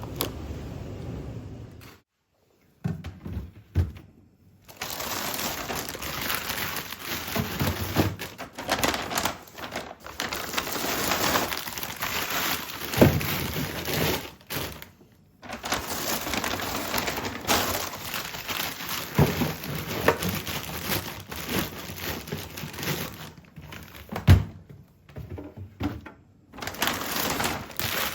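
Close handling sounds: steady crinkling and rustling with scattered knocks, broken by several abrupt cuts to silence.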